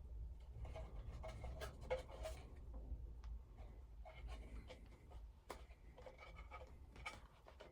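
Faint handling noises: scattered light clicks and scratchy rustles as a small object is handled and turned over.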